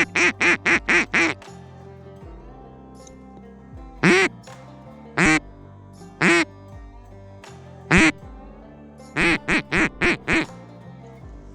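Duck quacking: a quick run of about six quacks, then single quacks spaced a second or so apart, then another run of five near the end, over steady background music.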